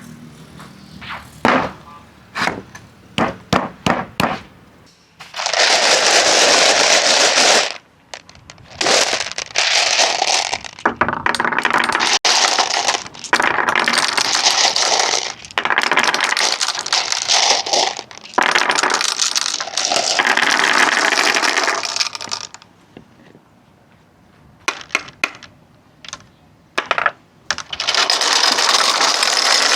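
Marbles running down wooden tracks: a string of sharp clicks and knocks as they drop and strike the wood, then long stretches of steady rolling noise broken by short pauses, and another cluster of clicks before the rolling picks up again near the end.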